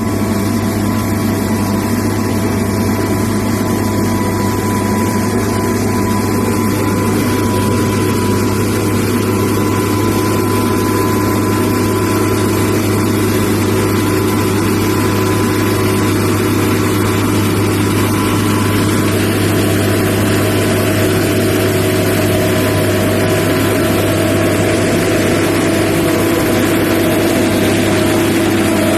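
Railway ballast dressing machine at work: its diesel engine runs with a steady drone at a constant pitch, with a steady noisy hiss over it.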